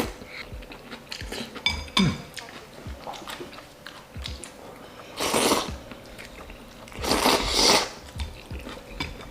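A person chewing and biting food at close range, with small scattered clicks and two longer, louder noisy bursts about five and seven seconds in.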